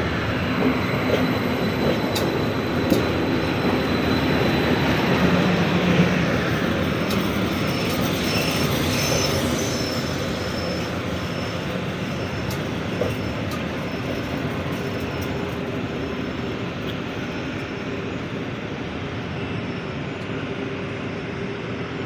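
Stadler EPm electric multiple unit rolling into a station platform, with steady wheel-on-rail noise, a few sharp clicks in the first seconds and faint wheel squeal. The noise eases gradually as the train slows to a stop.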